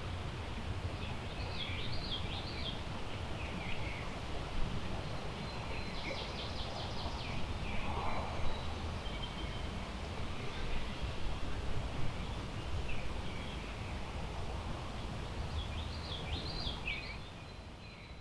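Songbirds singing over a steady low rush of wind in the trees. The same short song phrase comes early on and again near the end, with a quick rattling trill in between, and the whole sound fades down near the end.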